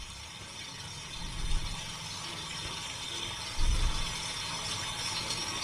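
Rain sound from a stock nature-footage video playing on a phone: a steady hiss with rapid patter. Two dull low bumps come about a second and a half in and near four seconds in.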